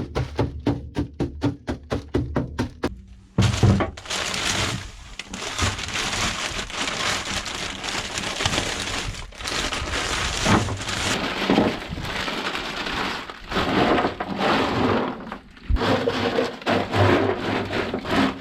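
Chunks of dry ice being broken up and poured out over a car's floor, giving an uneven crackling, rattling clatter of many small pieces with short pauses. It is preceded by about three seconds of even, quick rhythmic tapping.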